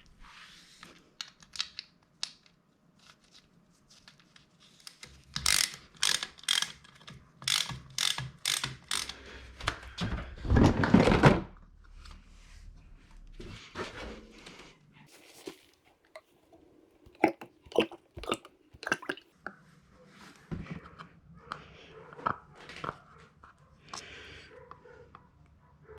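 Irregular clicks, knocks and rattles of tools and parts being handled on a workbench, with a denser rush of noise about ten seconds in.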